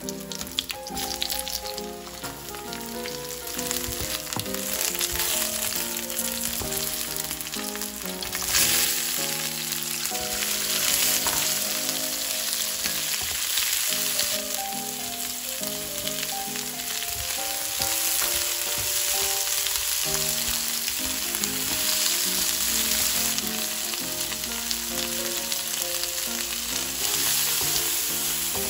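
Hot oil sizzling in a nonstick wok as dried red chilies and ginger slices fry, with a few light clicks as they go in at the start. About eight seconds in the sizzle grows louder and fuller as strips of bell pepper and onion are stir-fried.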